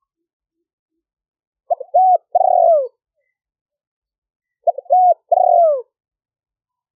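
Spotted dove cooing: two identical three-part coo phrases about three seconds apart, each a short note, a bent note and a longer falling note. Dead silence lies between the phrases, which fits noise reduction on the recording.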